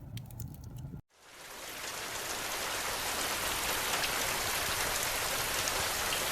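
Wood fire crackling with scattered pops over a low rumble, cut off abruptly about a second in. Then heavy rain fades in and falls steadily as a dense, even hiss.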